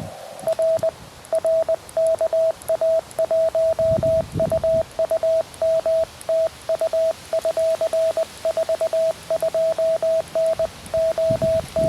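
Morse code (CW) on a QRP Labs QMX transceiver: a single pure tone of about 650 Hz keyed on and off in a steady run of dots and dashes. Low rumbles come in briefly around four seconds in and near the end.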